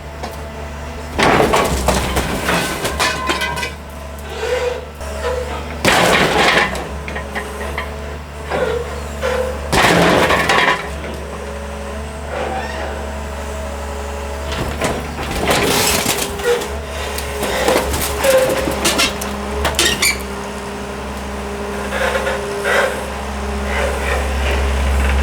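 A scrap car being crushed flat by a heavy machine: repeated loud crunches of buckling metal and breaking glass, about five big crashes with smaller knocks between, over the steady drone of the machine's diesel engine.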